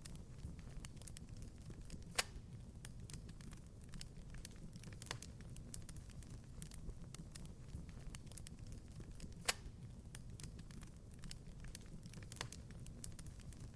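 Wood fire crackling in a fireplace: a steady low rumble of flames with many small snaps, and two louder pops, about two seconds in and past the middle.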